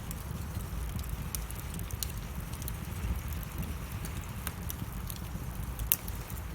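Wood fire crackling in a fireplace: scattered sharp pops and snaps over a steady low rumble, with one louder pop near the end.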